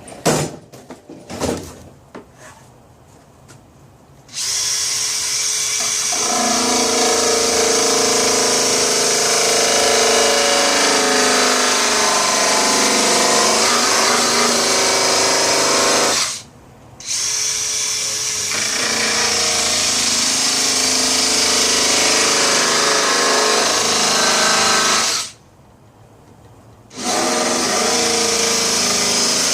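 Power tool with a cutting wheel cutting through the wagon's body, running in three long runs with two short stops, its pitch wavering as the wheel bites into the material. A few clicks come before the tool starts.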